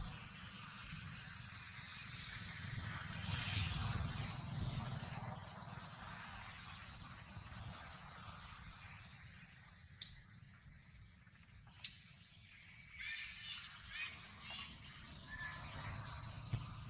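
Outdoor ambience with a steady high-pitched insect drone, like crickets. Two sharp clicks come about ten and twelve seconds in, and faint short chirping calls near the end.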